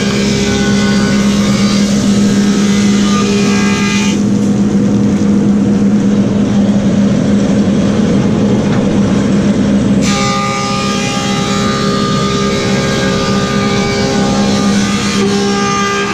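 Woodmaster thickness planer running steadily while planing white oak boards, with a constant low hum under a high whine. For about six seconds in the middle the whine drops away into a rougher, even noise, then returns.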